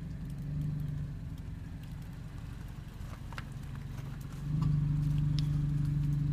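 Car engine idling after a remote start, a steady low hum that steps up and grows louder about four and a half seconds in, with faint ticks over it.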